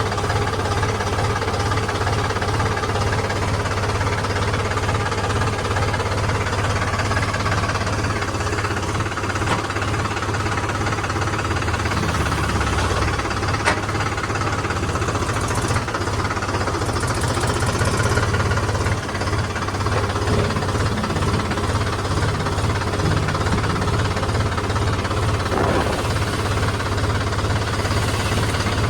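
Diesel engine of heavy machinery running steadily at a low, even rumble, with a few brief sharp knocks about halfway through and again near the end.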